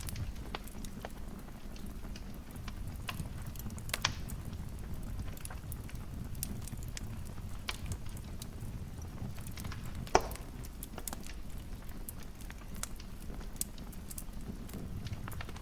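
Fire in a fireplace crackling: a steady low rumble of flame under scattered sharp crackles, with a louder pop about four seconds in and another about ten seconds in.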